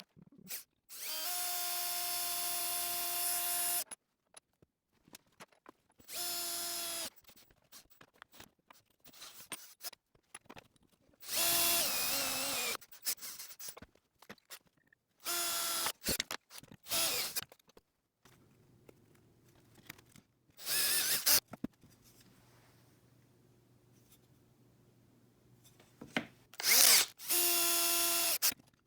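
Electric drill run in about seven short bursts with a steady whine, the longest about three seconds at the start, with small clicks and handling noises between bursts.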